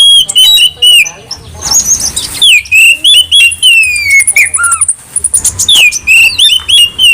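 Oriental magpie-robin (kacer) singing: a fast, varied run of high whistled notes, sliding up and down in pitch, with short pauses between phrases.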